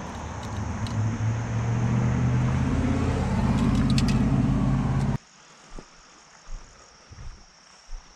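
A car's engine running with a steady low hum that stops suddenly about five seconds in, followed by quiet with a few faint knocks.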